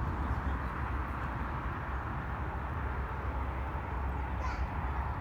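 Steady noise of a distant jet aircraft's engines, with a low rumble under a hiss.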